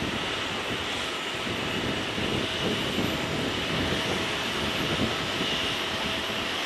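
Steady aircraft engine noise, a continuous rush with a faint steady whine over an uneven low rumble.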